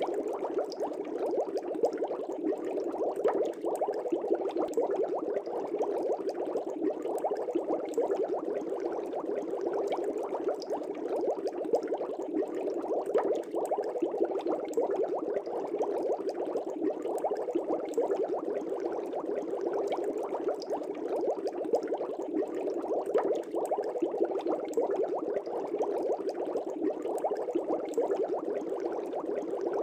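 Fish tank air bubbles bubbling steadily, a dense stream of small bubbles with no let-up.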